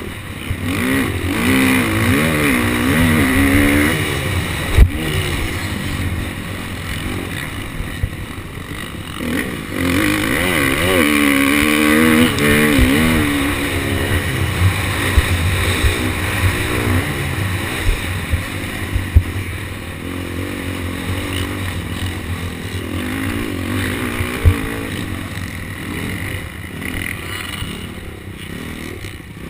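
KTM SX250F's 250cc four-stroke single-cylinder engine revving up and down repeatedly as the motocross bike is ridden hard around the track, pitch rising and falling through the gears. Several sharp knocks cut through, the loudest about five seconds in.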